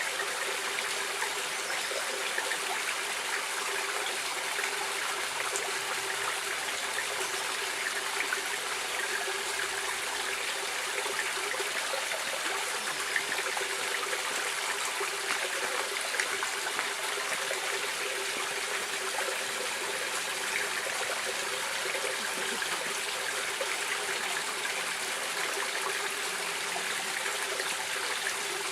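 Stream water running steadily, an even rushing hiss with small splashes scattered through it.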